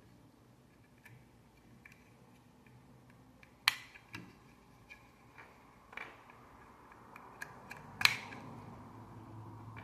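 Plastic Lego bricks being handled and pressed together: scattered small clicks, with two sharp, louder clicks, one a little over a third of the way in and one near the end.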